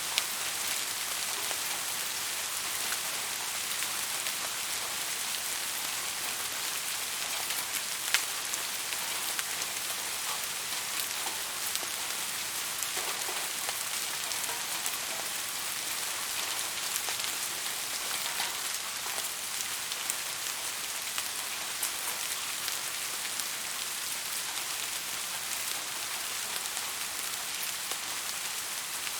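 Steady rain falling, an even hiss with scattered sharper drops ticking, one louder drop about eight seconds in.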